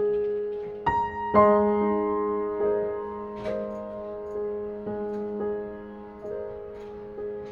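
Background music: slow, gentle solo piano, single notes and chords struck every half second to a second and left to ring out.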